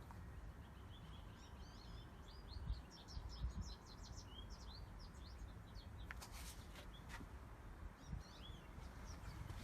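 Small birds chirping, many short high calls in quick succession, over a low steady rumble, with a few faint clicks a little past the middle.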